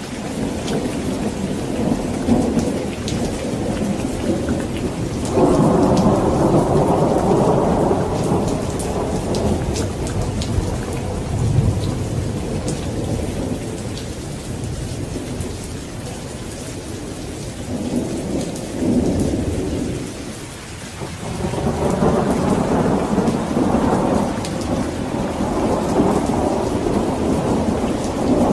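Steady heavy rain with rolling thunder: a low rumble swells in suddenly about five seconds in, and more long rumbles build near the end over the constant hiss of the rain.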